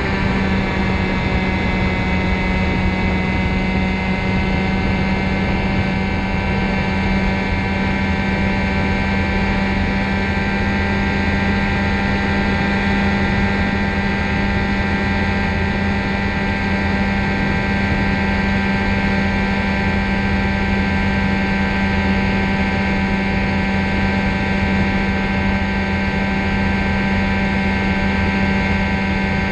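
Ultralight trike's engine and pusher propeller droning steadily in flight. The pitch eases down slightly in the first second, then holds.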